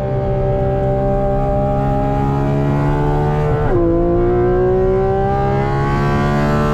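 A sports car's engine under hard acceleration on a racetrack. Its pitch climbs steadily through a gear, drops sharply at a quick upshift about halfway through, then climbs again.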